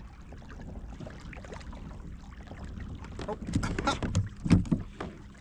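Pedal kayak moving through the water with a low steady rumble, then a burst of knocks and clatter from fishing gear on the boat in the second half, the loudest knock just before the end.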